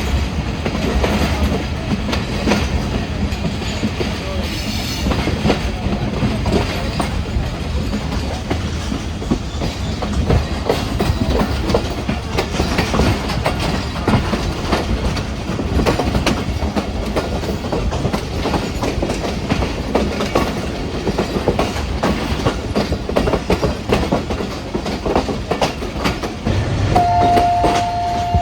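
Passenger train running along the track, its wheels clattering steadily over the rails. Near the end a steady two-note tone starts up.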